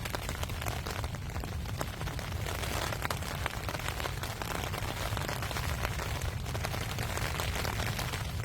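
Rain falling steadily as a dense patter of fine drops, over a constant low rumble of wind.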